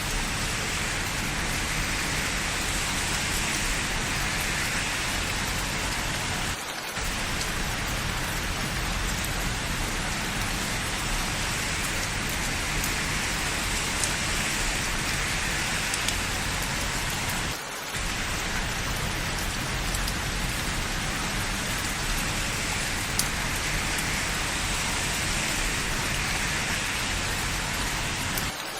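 Steady rain falling, an even hiss with a few faint drop ticks. The hiss briefly dips three times, about every eleven seconds.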